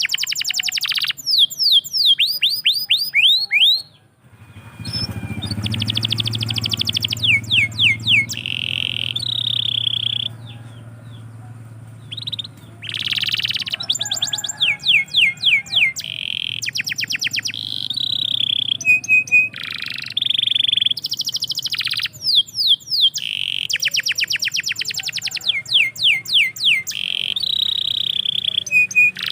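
Domestic canary singing a long, loud song of fast trills and rapidly repeated sweeping notes, broken by short pauses. There is a brief break about four seconds in, and a low background rumble for several seconds after it.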